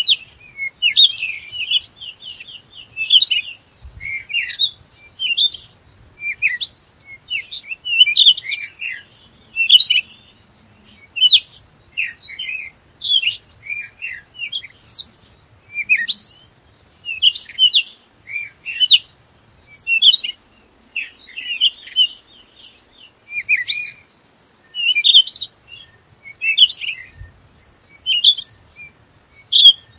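Small birds chirping: quick high chirps in short runs, one run after another with brief pauses.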